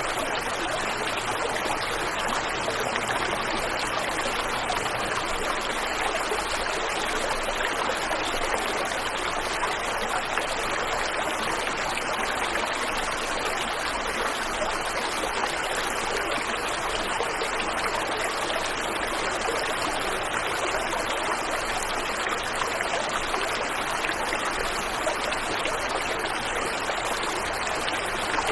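Waterfall and river water rushing in a steady, even flow.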